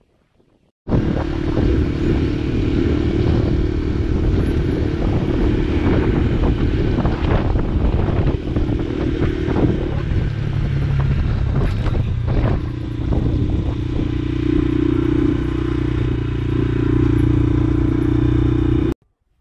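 A 125cc motorcycle's engine running while riding, with wind noise on the microphone and scattered clattering knocks. It starts abruptly about a second in, its note shifts about halfway through, and it cuts off suddenly just before the end.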